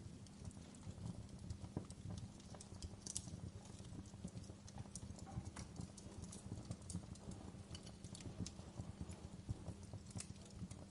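Wood fire crackling: irregular sharp snaps and pops, one brighter snap about three seconds in, over a low steady rumble of burning.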